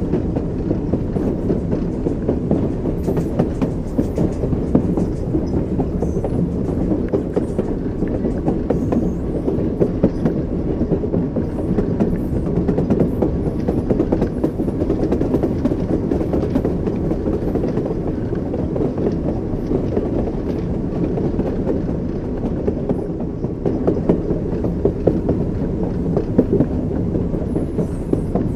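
Train wheels clicking over the rail joints with a steady low rumble from the moving railway carriage.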